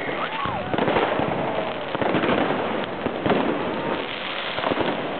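Many fireworks and firecrackers going off at once: a dense, continuous crackle of bangs and pops, with aerial rockets bursting overhead.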